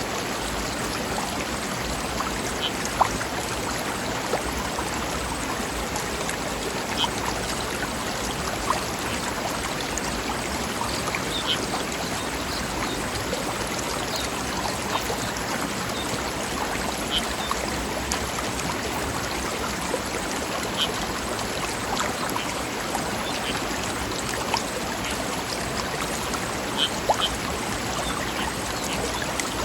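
Mountain river running over rocks: a steady rush of water with small splashes and plinks scattered throughout.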